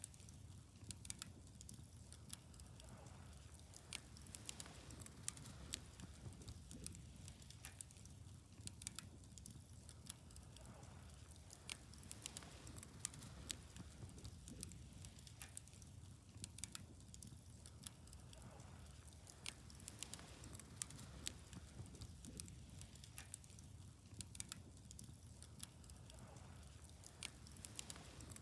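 Wood fire crackling faintly, with frequent small, sharp pops at irregular intervals over a low, steady rush.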